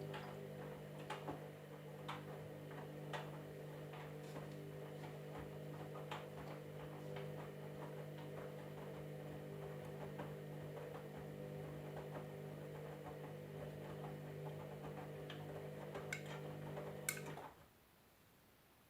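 Candy washing machine running, a steady mechanical hum with light irregular ticks and clicks, stopping abruptly near the end.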